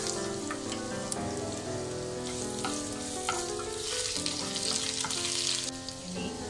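Chopped ginger, chana dal and cumin sizzling in hot oil in a nonstick frying pan as they are stirred with a spatula, with a few light taps of the spatula on the pan. The sizzle grows louder about two seconds in and eases near the end, over soft background music.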